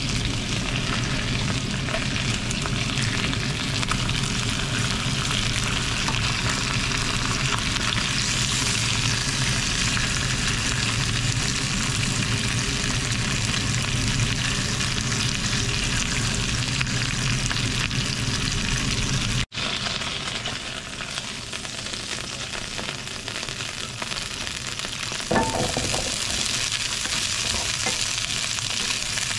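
Chicken thighs sizzling steadily as they fry in hot oil in a nonstick pan. After a sudden break about two-thirds of the way in, asparagus spears are frying a little more quietly and being turned in the pan, with one short knock a few seconds later.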